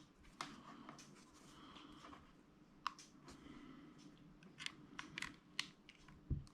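Faint handling sounds of a small sat nav being slid out of its sleeve: light rustling and scattered small plastic clicks, a quick run of them a little after halfway and a duller knock near the end.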